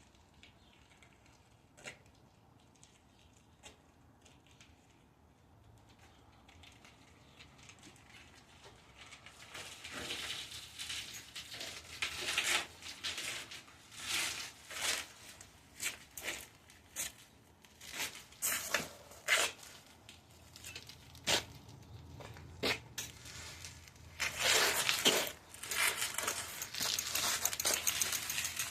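Irregular rustling and crinkling, starting faint and growing louder from about ten seconds in, loudest near the end.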